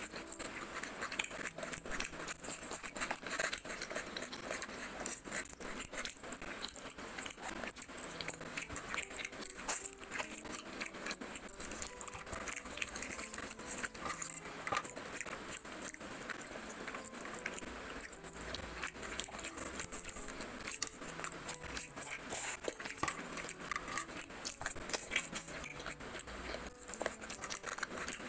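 Close-miked eating: steady wet chewing and lip-smacking of fried fish, with the soft squish of fingers pulling the fish flesh apart, over a steady high hiss.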